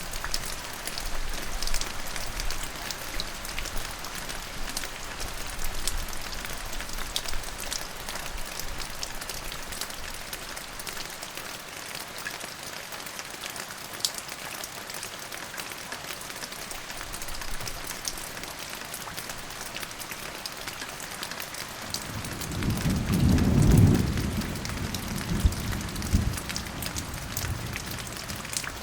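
Steady rain falling, with fine pattering drops throughout. A low rumble of thunder swells up about 22 seconds in, peaks, and fades over the next few seconds.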